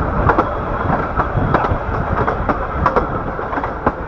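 Riding on the Bure Valley Railway's 15-inch gauge train: a steady rumble of the carriage running along the track, with sharp, irregular clicks and knocks from the wheels and couplings.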